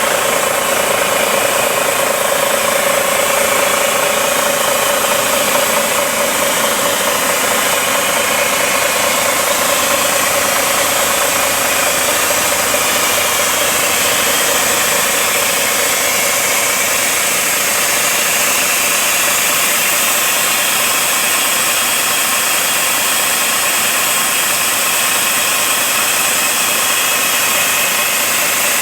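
Recovery truck's engine running steadily under a continuous, even hiss of air as the tyre inflation system vents the tyres down in pressure.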